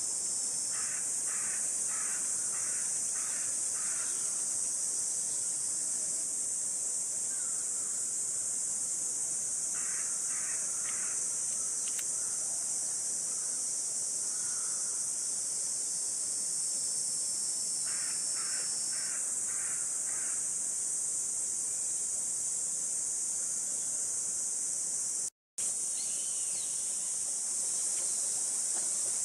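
A steady, high, hissing chorus of cicadas, with crows cawing in three runs of five or six caws each. The sound cuts out for a moment near the end.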